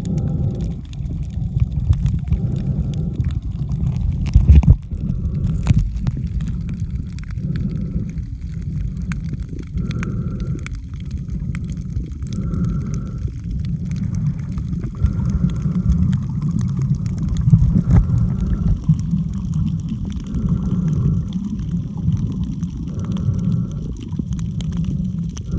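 Underwater action-camera audio while snorkeling: a loud, muffled low rumble of water moving around the camera, with a softer sound recurring about every two seconds and a few faint clicks.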